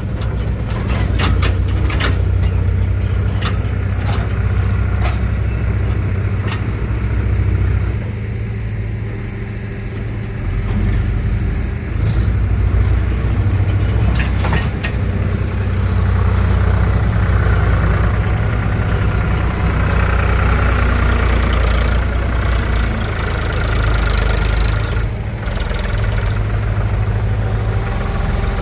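Heavy diesel engines of a tractor and a backhoe loader running steadily, with sharp clanks in the first few seconds and again about fourteen seconds in. The engine note grows louder past the middle and holds there with an added higher whine.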